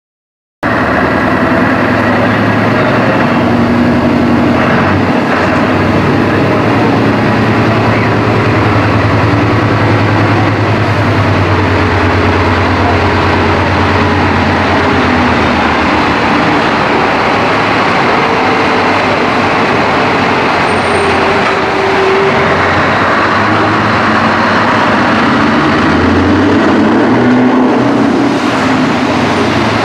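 Scania R500 V8 diesel truck with straight-piped (open) exhaust running, a loud, steady V8 exhaust note. It starts abruptly about half a second in.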